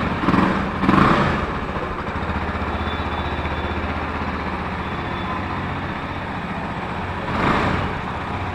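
Motorcycle engine idling steadily, with a brief louder swell about seven and a half seconds in.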